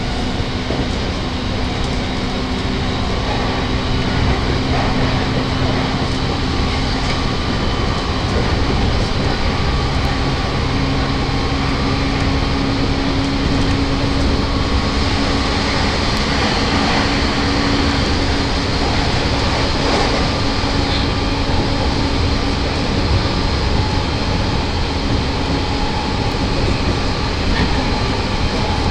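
Inside a JR E217-series electric train running at speed, in one of its motor cars (MoHa E217): a steady rumble of wheels on rail with a low, steady hum from the traction motors, shifting slightly in pitch about ten seconds in.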